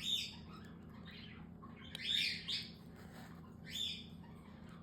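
Baby cockatiel chicks giving short, high chirping calls, a few bursts spread about a second apart: food-begging calls as they are about to be hand-fed.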